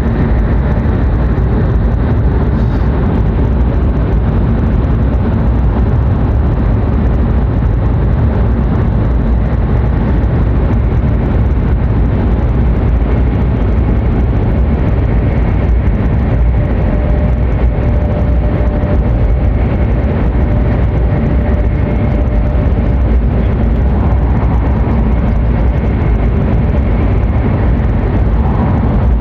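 Hokuriku Shinkansen train running at speed, heard from inside the passenger cabin: a loud, steady low rumble of wheels on rail, running gear and air rush, with no change in speed.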